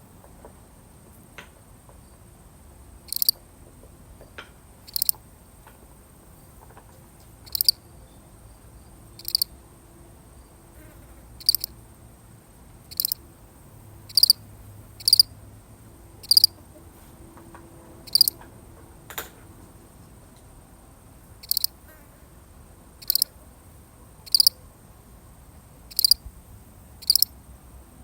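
A single field cricket chirping: short, sharp, high chirps, one every one to two and a half seconds, beginning about three seconds in, with a faint steady high hiss behind.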